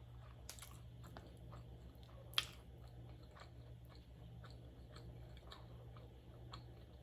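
A person chewing food close to the microphone, with faint wet mouth clicks and one sharper click about two and a half seconds in, over a steady low hum.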